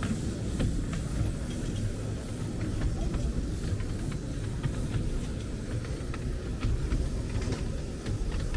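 Miniature railway train running: a steady low rumble with frequent small clicks and knocks.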